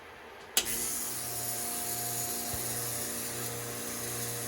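An espresso machine's brew switch clicks on, then the machine hums steadily. It is running a group, but no water comes through.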